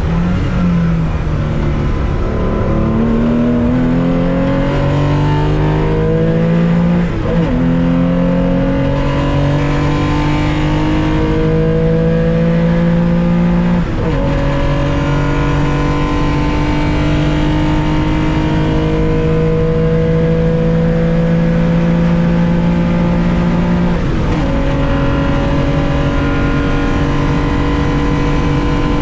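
Onboard sound of a 1965 Porsche 911 2.0's air-cooled flat-six accelerating hard through the gears: the engine note climbs steadily, drops at three upshifts about 7, 14 and 24 seconds in, and each gear runs longer than the last.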